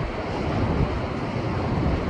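Rough surf in the heavy swell left by a passing typhoon, waves surging and breaking against shoreline rocks in a continuous, churning wash with a deep low rumble.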